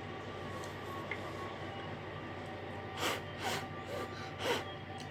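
Three short breathy sniffs through the nose, about half a second and then a second apart, over a steady low hum.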